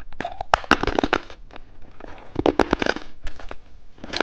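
Plastic candy wrapper crinkling and crackling as a lollipop is handled and unwrapped, in two irregular spells of crisp crackles.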